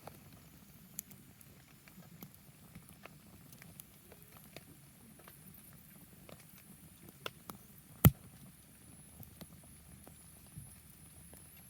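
Wood fire crackling: scattered small snaps and ticks, with one loud pop about eight seconds in.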